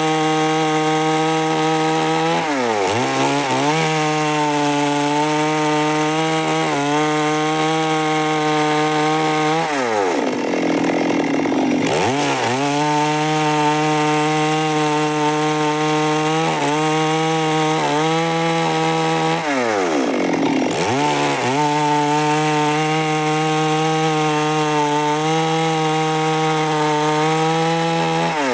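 Stihl MS 382 two-stroke chainsaw running at high revs, cutting lengthwise through wood to mill blocks. The engine holds a steady pitch under load, then drops and climbs back several times as the throttle is eased and reopened.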